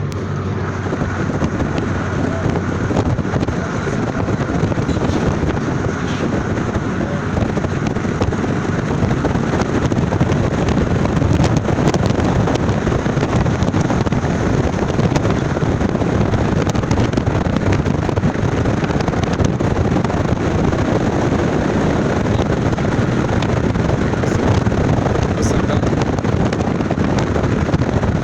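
Steady wind rushing over the microphone, with the running noise of a moving vehicle underneath.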